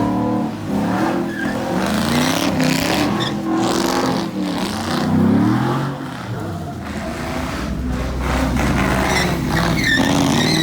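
Car engine revving hard, its pitch rising and falling over and over, with tyres squealing as a car spins and slides in a burnout or donut.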